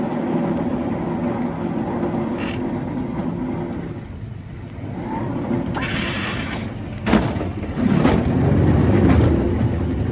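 Truck engine running steadily, with a short hiss about six seconds in and a sharp click a second later, after which the engine grows louder.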